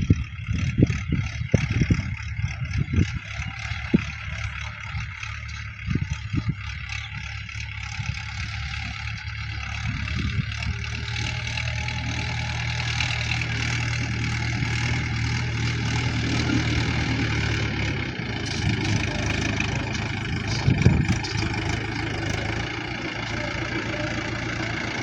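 Tractor engine running steadily, with a few low thumps in the first several seconds.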